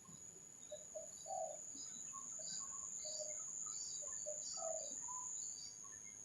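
Spotted doves (tekukur) cooing in short, separate low notes, mixed with higher bird chirps, over a steady high insect-like whine.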